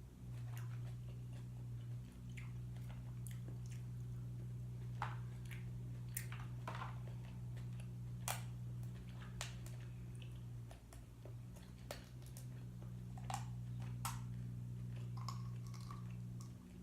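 Close-up chewing of cooked apple snail meat: scattered wet mouth clicks and squishes over a steady low hum.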